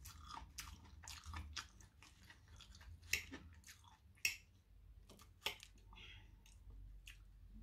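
Quiet chewing of currywurst sausage and fries with the mouth closed: faint, scattered wet mouth clicks, with a few louder clicks about three, four and five and a half seconds in.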